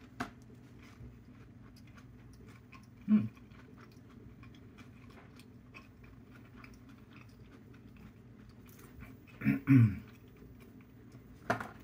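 A person chewing a mouthful of crumb-coated, deep-fried Korean hot dog, with faint small crunches. There is a short hum-like vocal sound about three seconds in and two more near the end.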